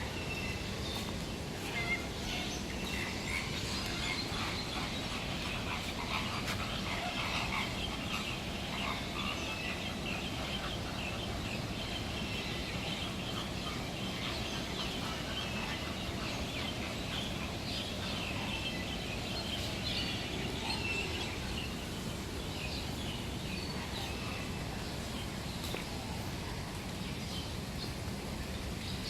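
Many birds calling at once: a steady chatter of short, overlapping calls, over a constant background hiss.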